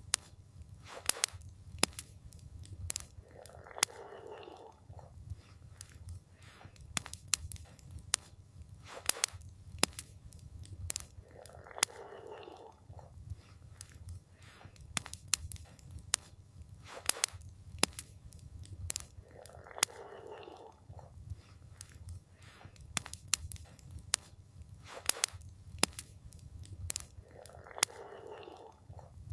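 Campfire crackling, with frequent sharp irregular pops over a low steady rumble. About every eight seconds a soft swell of noise rises and fades over about a second.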